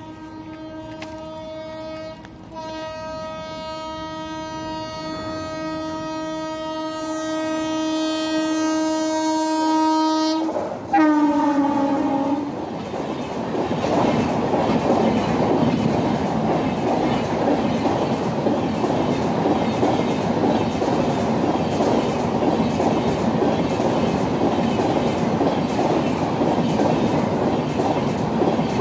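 WAP7 electric locomotive's horn sounding as it approaches, with a brief break about two seconds in, then one long blast growing louder. About ten and a half seconds in the horn's pitch drops sharply as the locomotive passes, and it cuts off. The passenger coaches then rush past at speed, their wheels clattering over the rail joints.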